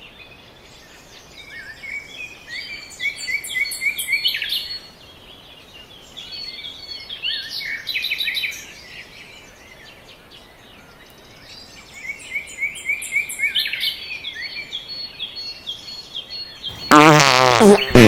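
Small birds chirping in three bursts of quick, repeated high chirps over faint outdoor background noise. Near the end a loud, wobbling buzzy sound starts abruptly.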